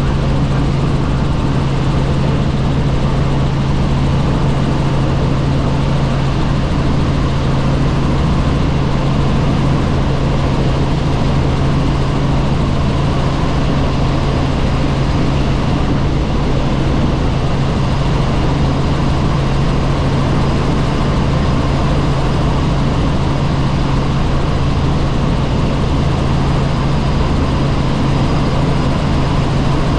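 Helicopter in flight heard from on board, likely through the open door: a loud, steady drone with a strong low hum over an even rushing noise, unchanging throughout.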